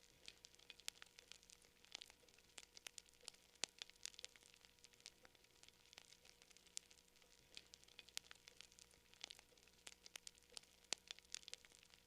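Wood fire crackling, with many sharp, irregular pops and snaps of varying loudness over a faint hiss.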